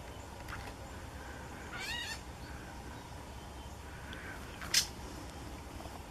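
Birds calling: a short, cat-like mewing call that rises and falls about two seconds in, a few faint short calls, and one sharp, very brief chip nearly five seconds in, the loudest sound.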